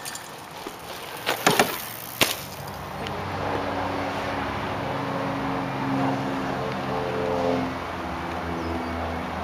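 A few sharp knocks, then from about three seconds in a motor vehicle engine running with a steady low hum.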